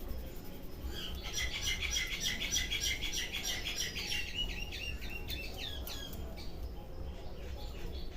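Birds chirping in a quick, dense twittering series from about a second in, thinning out after about six seconds, with faint sharp clicks scattered through it.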